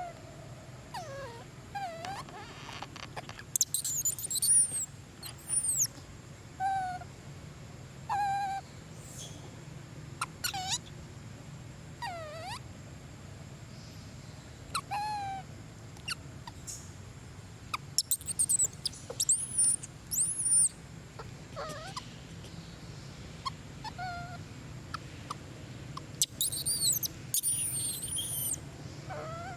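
Long-tailed macaques calling repeatedly: short coos that rise and fall in pitch, mixed with very high, arching squeals, coming every second or two.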